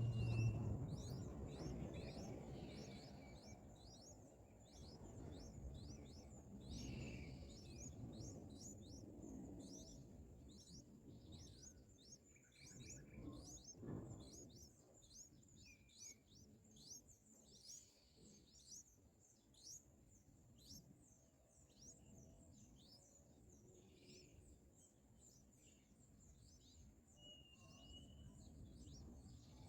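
Streak-eared bulbul nestlings begging for food: a faint, quick series of short high chirps, about two a second, that keeps going.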